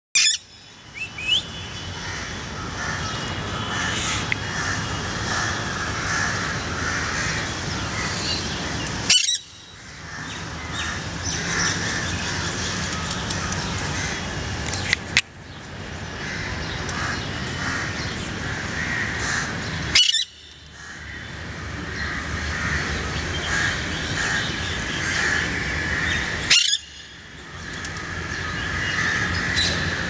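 Birds chirping and calling over a steady outdoor background. A sharp click comes four or five times, each followed by a brief dip in the background.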